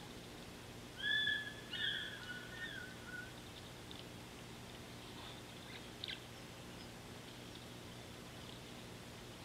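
A bird calls about a second in, a short call and then a longer one that steps down at its end, with a few faint ticks and chirps later, over a steady low hum.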